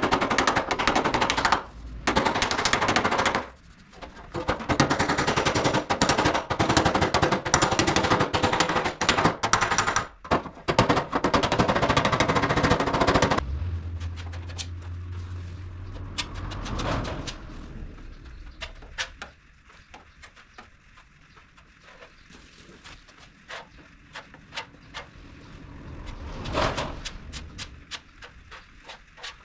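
Fast runs of hammer taps on the bare steel of a car's front wing, knocking down high spots that stood proud through the body filler. They stop about thirteen seconds in, leaving only faint scattered clicks.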